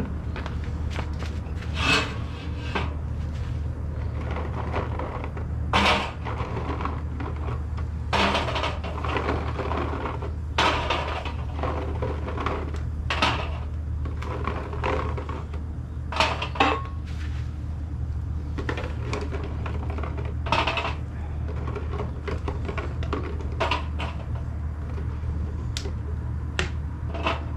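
Irregular knocks and clinks of hard objects being handled and set down on a wood stove's steel cooking plate, over a steady low hum.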